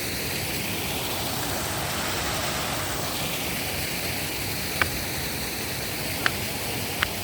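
Steady rushing of a waterfall, an even hiss of falling water. Three short sharp clicks stand out over it in the second half.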